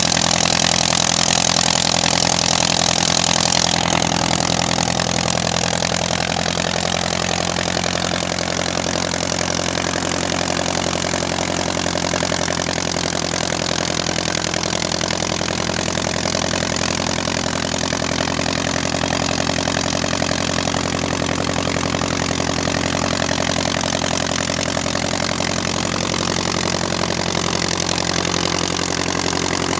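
Continental A-75 air-cooled flat-four engine of a 1941 Luscombe 8A running steadily at a low, even speed. It is a little louder, with more high hiss, for the first four seconds or so, then settles.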